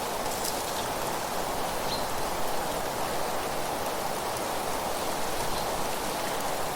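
Steady wind through trees with rustling leaves, an even hiss that does not let up.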